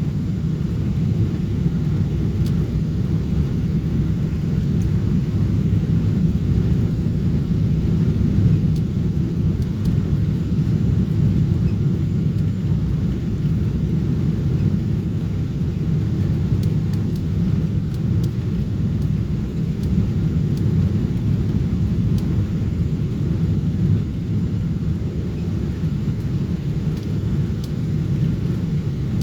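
Steady low rumble of a Boeing 777-300 airliner in flight, engine and airflow noise heard from inside the passenger cabin.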